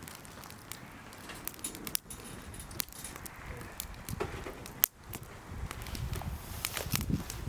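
Wood campfire crackling, with irregular sharp snaps and one louder pop near the middle, and a low rumble building over the second half.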